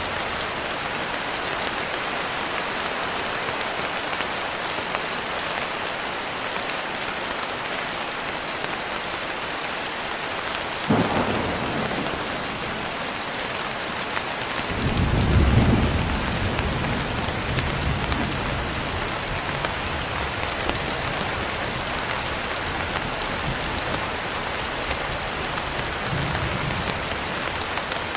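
Steady heavy rain falling, with a sharp thunderclap about eleven seconds in and a deeper rolling rumble of thunder about halfway through that slowly fades.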